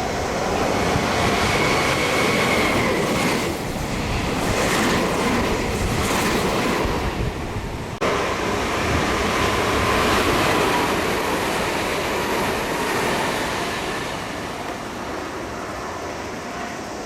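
Meitetsu electric train passing through the station at speed: a loud rush of wheels on rails with a faint steady whine. The sound breaks off for an instant about eight seconds in, then carries on and fades over the last few seconds.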